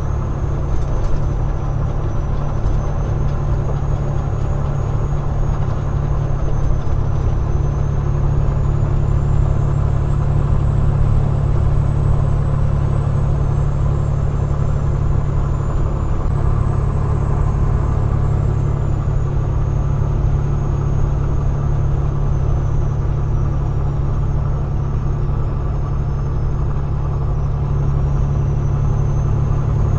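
Peterbilt 389 glider semi truck running steadily down the road: an even low engine drone with a faint high whine that slowly wavers in pitch.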